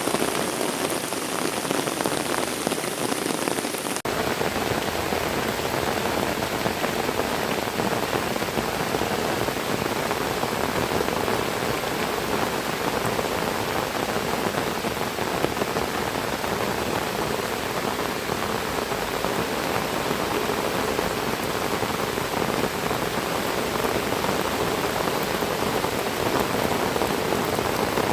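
Heavy rain falling steadily, a dense even hiss of raindrops on surfaces. About four seconds in the sound shifts abruptly and becomes fuller in the low end.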